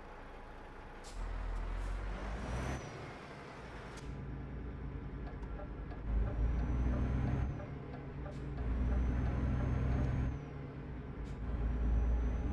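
Truck's diesel engine heard from the cab, pulling away and building speed, with brief dips as it changes gear. A short air hiss about two seconds in, like the air brakes releasing.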